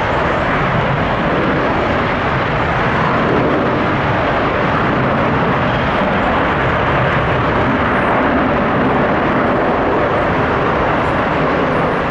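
Jet engines of a Boeing 787 airliner, a loud, steady roar during its landing.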